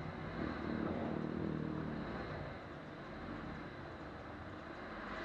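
Off-road vehicle's engine running at low revs while crawling a rock ledge, a little stronger at first and easing off after about two seconds.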